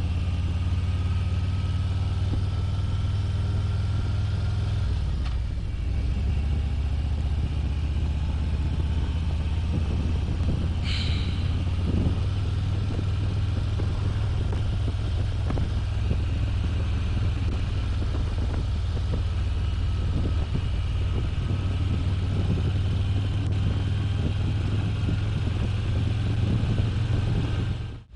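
Harley-Davidson Ultra Limited's V-twin engine running steadily while cruising, a constant low drone picked up through a helmet intercom microphone.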